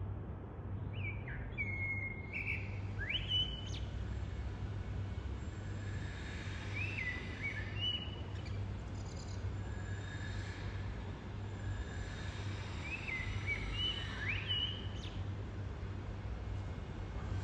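Common blackbird singing: three short phrases of whistled notes with sliding pitch, several seconds apart, over a steady low hum.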